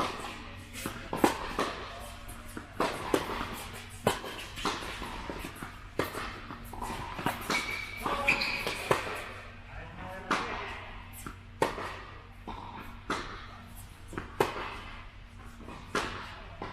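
Tennis balls being struck by racquets and bouncing on the court during a rally: a run of sharp pops, about one or two a second, with distant voices under them.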